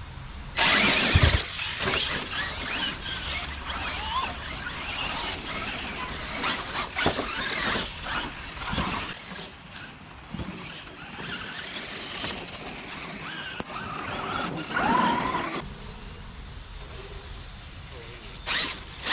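R/C monster trucks racing: high whining motors and squealing drivetrains, with tyre scrabble and knocks. The sound drops away about three-quarters of the way through.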